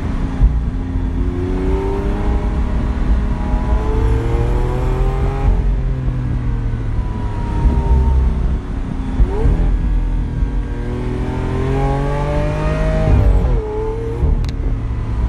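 The V12 of a Lamborghini Aventador SV Roadster, heard from the cabin with the roof off. The revs climb steadily in second gear for about five seconds and fall away, then climb again and drop off sharply near the end.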